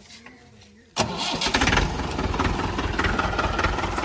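Tractor diesel engine starts up abruptly about a second in and keeps running loudly with a low rumble.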